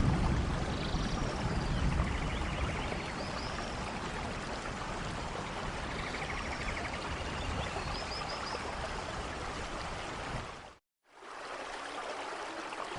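Steady rain falling in a forest, an even rushing hiss. The low tail of a thunder rumble fades out in the first second or two, and faint high chirps come and go. The sound cuts out completely for a moment about eleven seconds in.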